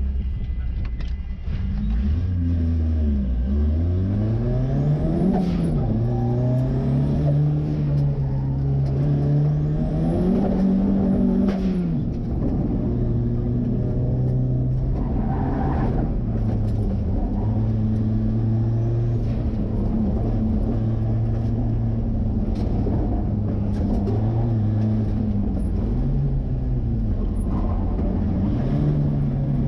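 Car engine accelerating hard, running up in revs twice, dropping off about twelve seconds in, then holding a steady note before climbing again near the end. Most likely the turbocharged Ford 2.3-litre four-cylinder in a 1963 Volvo Amazon on an autocross run.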